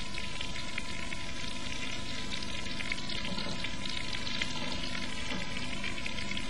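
Butter and meat juices sizzling steadily around a beef steak topped with ham frying in an earthenware dish, with fine, even crackling.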